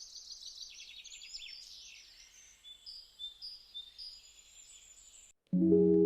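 Birds chirping faintly in quick high trills and short repeated calls. About five seconds in the chirping stops and background music with guitar and keyboard starts.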